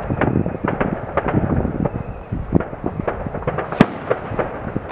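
Fireworks going off, many overlapping bangs and crackles in a continuous barrage, with one sharper, louder crack about four seconds in.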